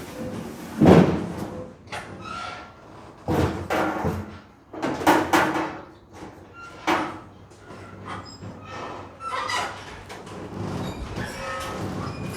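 A series of clunks, bangs and scrapes, about five loud ones a second or two apart, with brief squeaks and ringing between, typical of heavy parts being moved and fitted during truck bed work.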